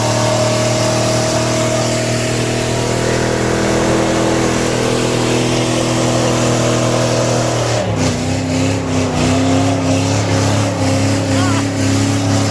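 Car engine held at a steady high rev, its pitch shifting down and settling again about eight seconds in.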